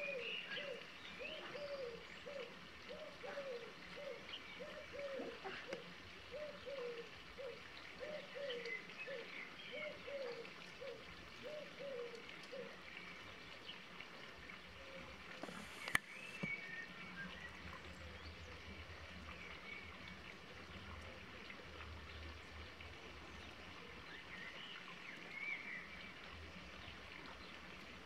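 Bird calls: a low hooting note repeated about twice a second for roughly the first half, over scattered higher chirps from small birds. There is a single sharp click about halfway through, then a faint low hum.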